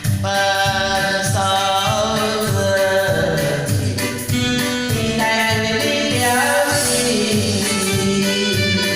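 A woman singing a slow song over instrumental backing with a steady beat; her sung notes are held and glide between pitches.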